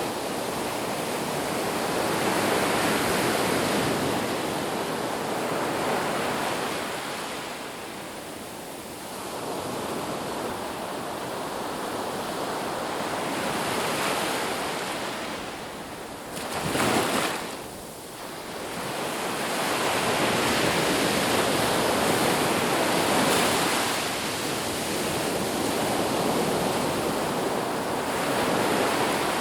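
Ocean surf washing on a beach, swelling and ebbing every few seconds, with one short, louder rush about halfway through.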